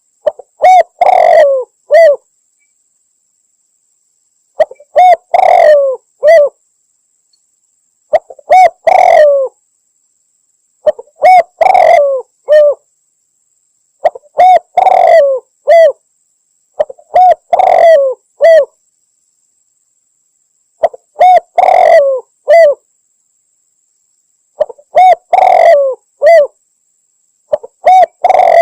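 Spotted dove (tekukur) cooing: the same short multi-note coo phrase repeats about every three and a half seconds, eight times. It is a hunting lure call, billed as a female calling to a male.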